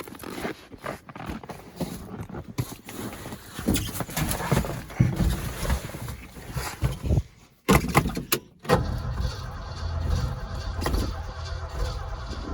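Starter cranking the cold engine of an old Ford F-250 Highboy pickup, primed and with the choke off: uneven bursts with two short stops a little past the middle, then a long steady crank. The engine does not catch.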